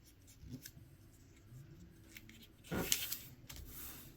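A sheet of paper being folded by hand: soft rustling and small handling clicks, then a louder rub about two and a half seconds in as a crease is pressed down.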